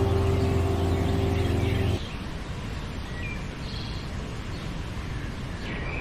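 A held chord of background music that cuts off about two seconds in, followed by birds chirping in short, quick calls over a steady outdoor hiss.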